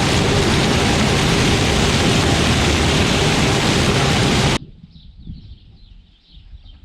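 Loud, steady rushing noise that cuts off abruptly about four and a half seconds in. It gives way to a much quieter stretch with repeated faint high chirps, like birds, over a low rumble.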